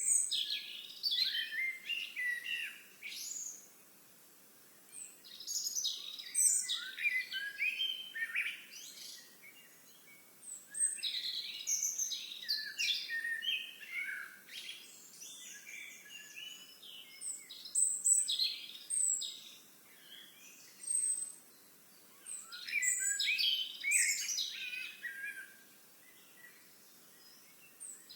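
Songbirds singing: a quick, complex warbling phrase two to four seconds long, repeated about every five to six seconds with quiet gaps between.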